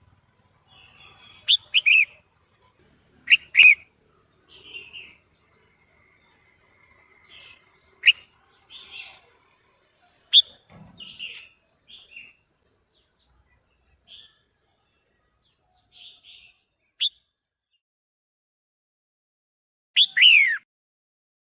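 Female red-whiskered bulbul calling: loud, sharp chirps in irregular ones and twos, with softer chattering notes between them. Near the end comes a longer call that falls in pitch.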